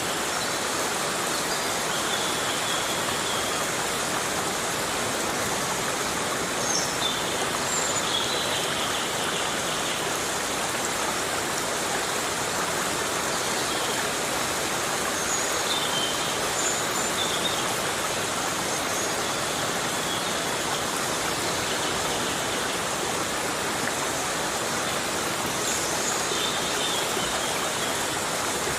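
Heavy rain falling steadily on forest foliage, an even rushing hiss. Faint short high chirps sound now and then through it.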